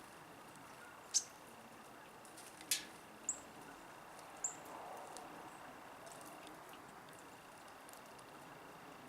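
Short, sharp, high-pitched bird chip calls, four in the first half, over faint outdoor background with a thin steady high tone.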